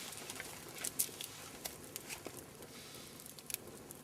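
Campfire of dry deadwood crackling, with scattered sharp pops at irregular intervals over a faint hiss.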